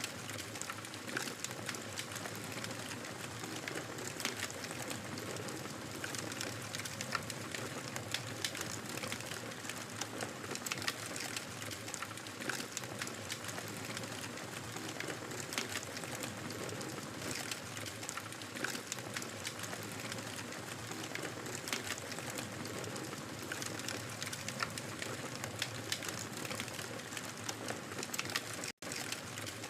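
Wood fire crackling in a fireplace: a steady hiss dotted with frequent small pops and snaps. Near the end the sound drops out for a split second.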